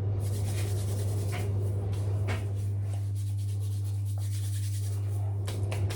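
Steady low electrical hum, with a few faint, brief rubbing and rustling sounds over it.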